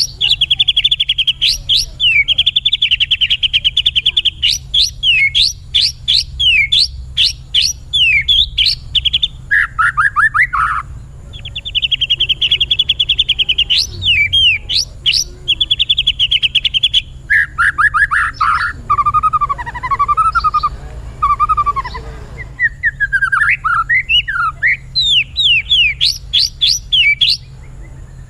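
White-rumped shama (murai batu) in full, continuous song: fast repeated trills and sharp sweeping whistles, with lower warbling phrases near the middle.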